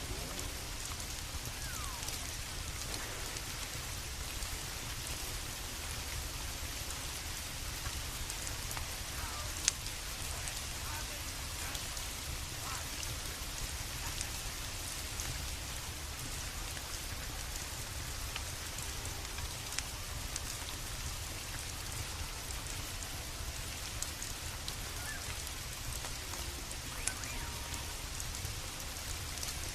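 Steady rain falling, with a low rumble underneath and scattered sharp crackles and ticks, one louder snap about ten seconds in.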